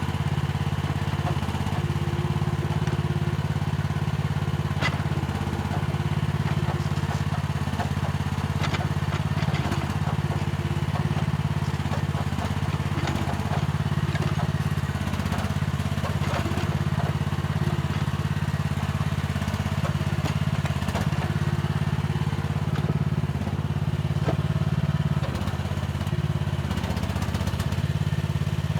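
Mini excavator's diesel engine running steadily under load, with scattered clanks and knocks as it works the soil.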